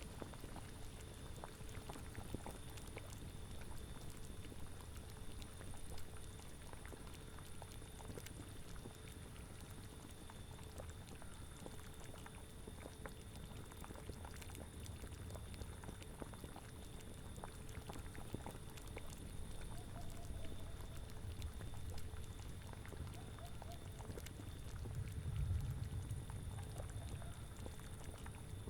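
A cauldron bubbling at a steady boil, with many small pops and clicks, over a low rumble of wind. The wind swells briefly near the end.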